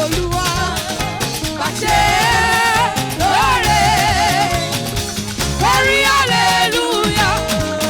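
Live praise band playing an upbeat groove, with steady percussion and bass, and voices singing long, wavering phrases over it from about two seconds in.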